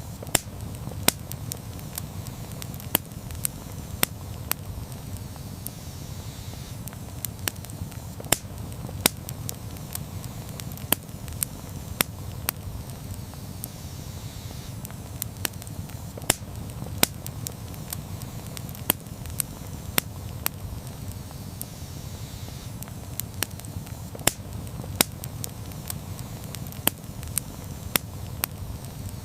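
Campfire burning: a steady low rumble of flames with irregular sharp crackles and pops of burning wood, a few of them much louder than the rest.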